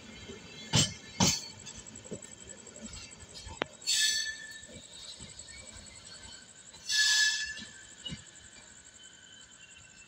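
Passenger train's last coaches rolling past, wheels clacking twice over rail joints about a second in, then the rake rolling away with fainter rattling. Two short high-pitched screeching bursts come about four and seven seconds in.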